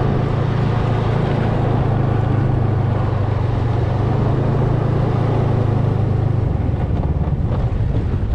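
Snowmobile engine running at a steady speed with a constant low hum; about six and a half seconds in the steady note breaks up and becomes uneven.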